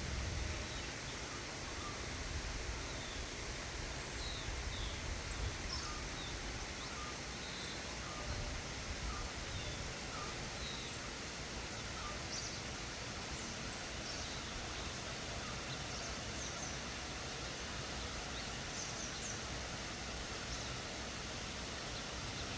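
Steady outdoor background hiss with many short, high bird chirps and calls scattered throughout, and a low rumble near the start.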